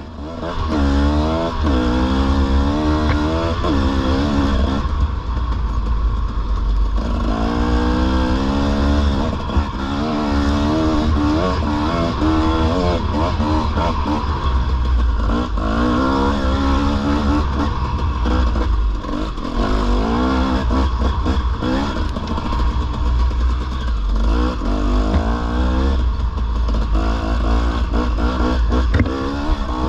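Dirt bike engine under way on a trail, its pitch climbing and dropping back again and again as the rider opens and closes the throttle through the gears, over a steady low rumble.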